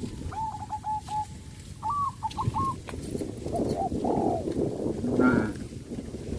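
A bird calling in short repeated cooing notes, with more calls about halfway through, over an irregular rustling and crunching of leaves as cattle feed on bamboo.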